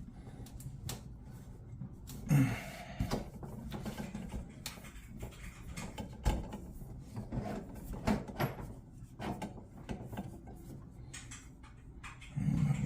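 Scattered clicks, light knocks and rubbing from faucet parts being handled and lined up into place.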